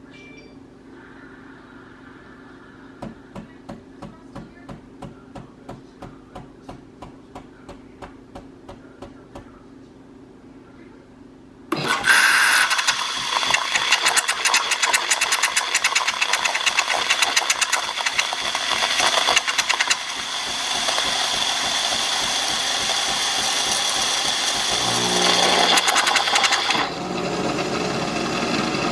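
Philips 3200 LatteGo super-automatic espresso machine running a drink cycle: soft regular clicking, about three a second, then a loud mechanical running noise starting suddenly about twelve seconds in. Near the end it changes to a lower, pitched running sound and then stops.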